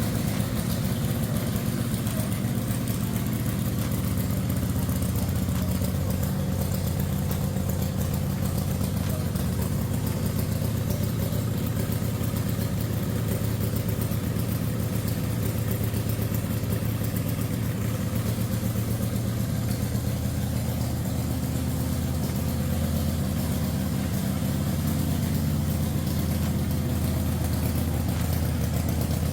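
A 113 cubic-inch V-twin engine on a custom chopper idling steadily, with an even, loping firing beat.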